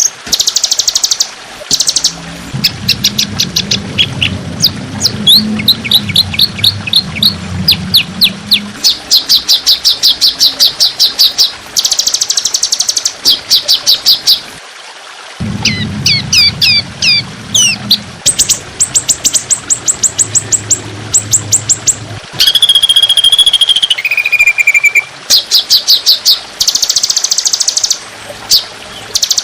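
Songbird song in fast, tightly packed bursts: rapid runs of repeated high chirps and trills, with a pair of held whistled notes, the second lower, a little after two-thirds of the way through.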